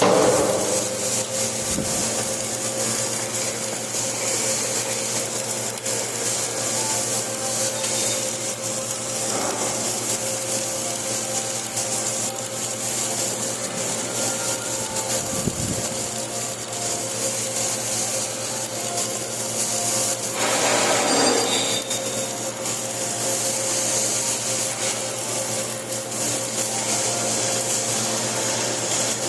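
Flux-cored arc welding: the arc gives a steady crackling hiss with a constant low hum underneath, with a brief louder swell about two-thirds of the way through.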